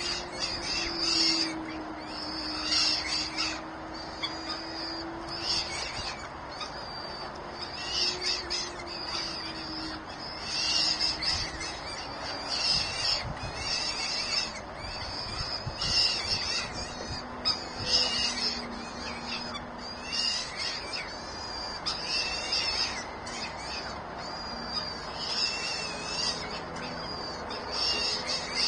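Birds calling at the nest: short, harsh, high calls repeated every second or so. A faint low steady drone sounds under them at the start and again about two-thirds of the way through.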